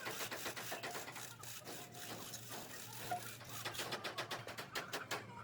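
Rapid, regular mechanical clicking or tapping over a steady low hum, with the clicks growing denser and more even about two-thirds of the way in.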